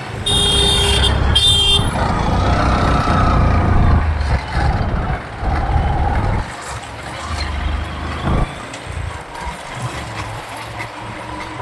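Road traffic and wind noise heard from a moving motorcycle, with a vehicle horn honking twice at the start, the first honk longer than the second.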